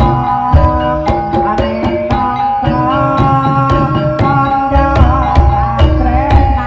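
Live Javanese ebeg (jaran kepang) music: hand drums beating a fast rhythm under a melody of held notes, loud and continuous.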